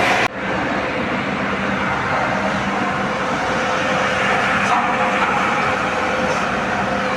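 Steady mechanical noise of industrial machinery running, with a faint hum, briefly cut off and resuming about a third of a second in.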